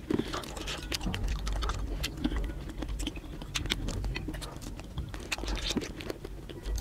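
Close-up chewing of soft fruit, banana and pomegranate arils: many small wet mouth clicks and smacks, over a low steady hum.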